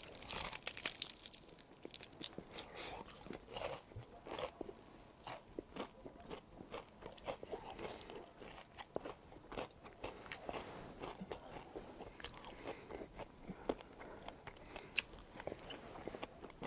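Crunching bites into a piece of battered, deep-fried cuttlefish, densest in the first couple of seconds, followed by steady chewing with many small crisp crackles.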